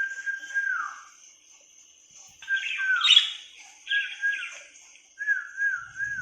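A person whistling held notes that each drop in pitch at the end, then a wavering warble near the end, while pet lovebirds chirp and squawk back, loudest just before the middle.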